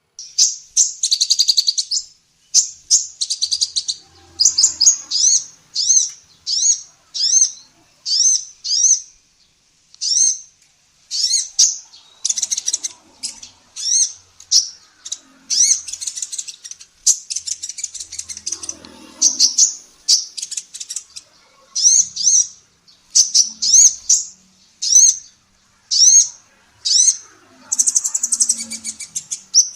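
Female kolibri ninja sunbird calling: high, rapid chirps and short slurred notes, repeated in quick bursts about once or twice a second, the long, lively calling kept by bird keepers to train songbirds.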